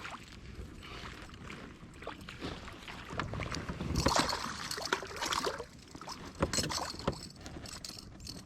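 Irregular splashing and knocking around a kayak as a small bass is brought in and landed, loudest in the middle.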